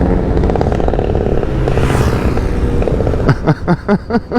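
Small motorcycle and scooter engines running while riding in a group, loud enough to drown out the rider's own scooter. Near the end the sound breaks into a quick pulsing.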